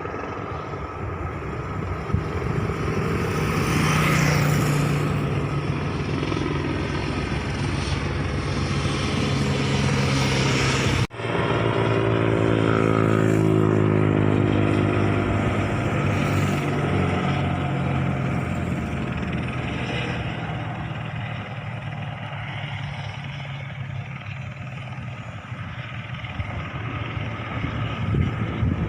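Aircraft engine and propeller drone, steady and loud. After an abrupt cut about eleven seconds in, it sounds again with its pitch falling as the aircraft passes by.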